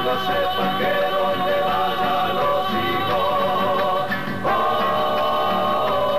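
Music: a vocal ensemble singing in close harmony, without clear words, settling into a long held chord about four and a half seconds in.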